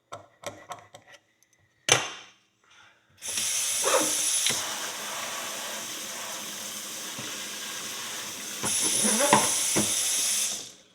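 A few quick scraping strokes, a click, then hot water running from a tap onto a horseshoe for about seven seconds, harder at first and again near the end, before it is shut off abruptly.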